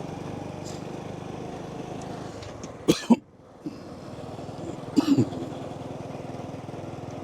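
Small motorcycle engine running steadily while riding, a low even drone. Two brief loud sounds break through, about three seconds in and again about five seconds in; the audio dips for a moment after the first.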